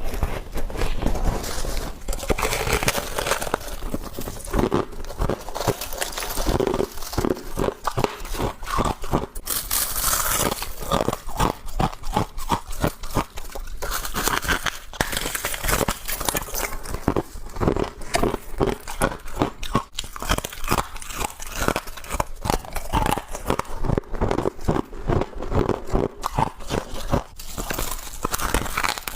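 A person biting and chewing crunchy frost close to the microphone: a continuous run of irregular, crackly crunches.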